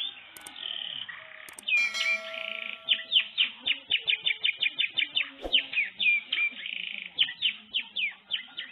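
Domestic canary singing: rapid strings of short, sharply falling chirps mixed with rolling trills and a few held whistled notes, several notes a second.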